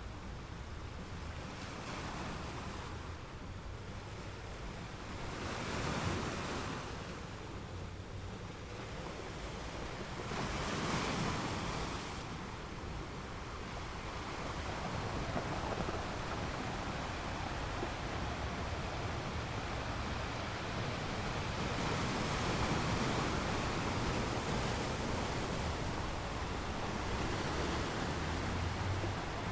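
Ocean surf: waves washing and breaking in a continuous rush, swelling louder as waves come in about six seconds in and again around eleven seconds, then staying fuller toward the end.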